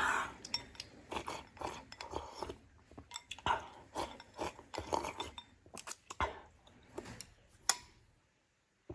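Someone eating a bowl of rice: utensils clicking against the bowl, and chewing, in quick irregular clicks and crunches. It goes briefly quiet near the end.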